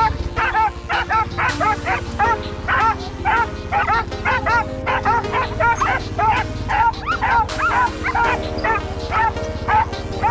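Irish Setters barking and yipping in a rapid, unbroken string of short high barks, about three a second, with an ATV engine running steadily underneath.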